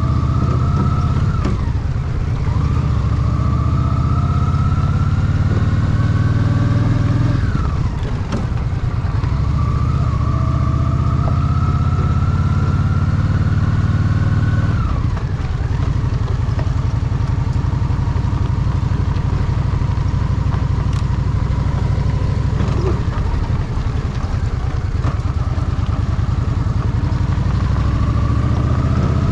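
Honda Shadow VT750's V-twin engine pulling through the gears. The pitch rises and drops suddenly at three upshifts in the first fifteen seconds, then holds steady, eases off, and climbs again near the end.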